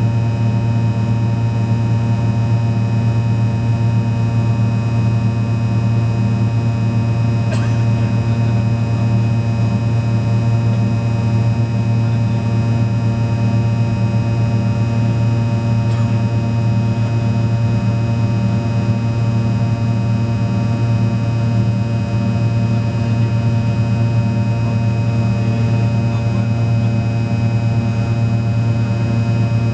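Fokker 100 jet engines running with a steady, unchanging drone: a deep hum with many steady tones above it. Two faint clicks sound, one about a third of the way in and one about halfway.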